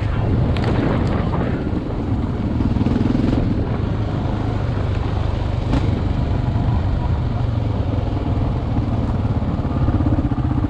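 Off-road motorcycle engine running steadily while riding, with the drone held fairly even. A few sharp clicks cut through it about half a second in and again near the middle.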